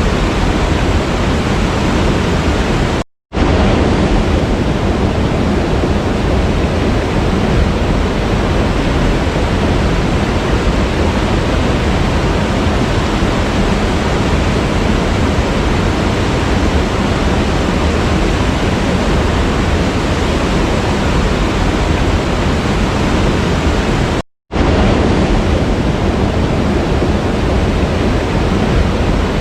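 Waterfall rushing in a steady, even roar of falling water. It cuts out to silence for a split second twice: about three seconds in and about five seconds before the end.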